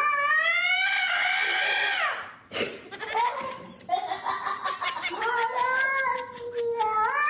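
A cat yowling in long drawn-out calls: one of about two seconds that rises and then falls, then a longer wavering one.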